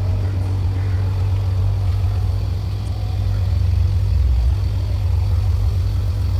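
A vehicle's low, steady rumble that starts suddenly and holds at an even level.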